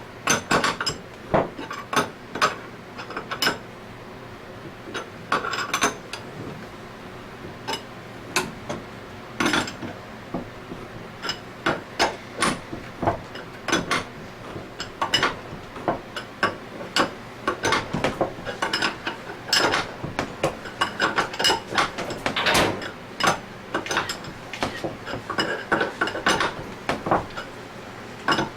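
Irregular metallic clicks and clinks of a hand-turned bearing puller and wrench, working two bearings out of an Anest Iwata scroll unit. The work is slow and hard, moving only a thread at a time.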